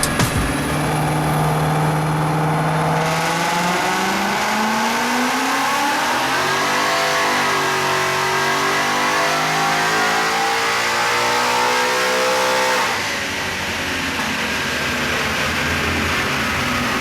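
Supercharged V8 of a 2020 Mustang GT, fitted with a Whipple 3.0 L supercharger and a full exhaust, revving up in one long pull: the pitch climbs steadily for about ten seconds, then drops suddenly about thirteen seconds in and settles to a lower steady running note.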